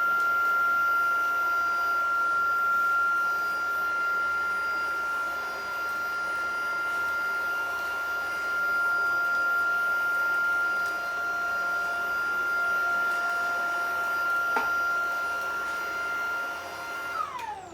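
Tineco cordless stick vacuum's motor running with a steady high whine. It is switched off near the end, its whine falling in pitch as it winds down.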